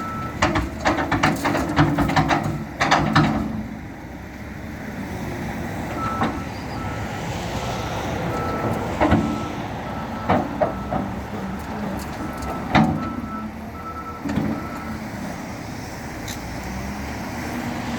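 Shovel loader's engine running under load, with a cluster of knocks and clatter in the first few seconds and a few more single knocks later. From about six seconds in, its reversing alarm beeps evenly, about twice a second, for roughly nine seconds before stopping.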